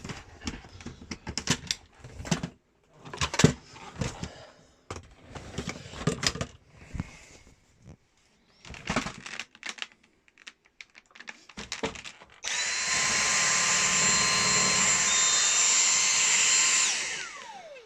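Scattered plastic clicks and knocks as a Dyson V6 cordless stick vacuum is fitted together by hand. About twelve seconds in, its motor switches on and runs steadily with a high whine for about four and a half seconds, then switches off and winds down with a falling pitch.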